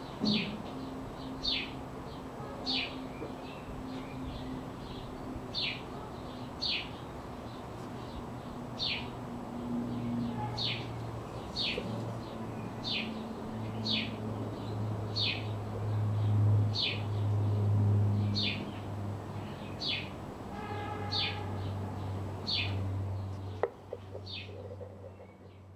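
A small bird chirping again and again, one short, high, slightly falling chirp about every second. Under it runs a low hum that grows louder through the middle and then eases off. There is a single sharp click near the end.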